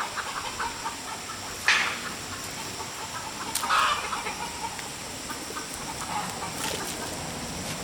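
Chickens clucking on and off, with two louder calls about two and four seconds in.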